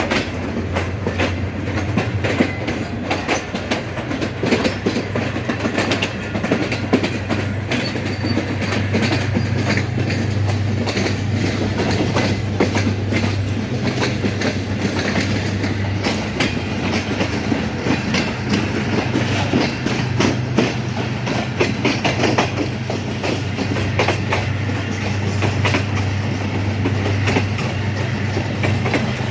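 Passenger train running on the rails: a steady low rumble under dense, irregular clicking and rattling of wheels and carriages over the track.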